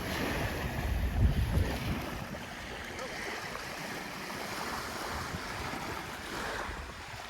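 Outdoor shoreline ambience: wind on the microphone over small waves washing at the water's edge, with a stronger gust about a second in.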